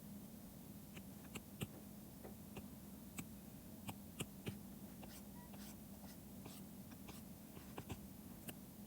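Faint, irregular taps and clicks of a stylus on a pen tablet during digital drawing, with about a dozen sharper taps scattered through, over a steady low hum.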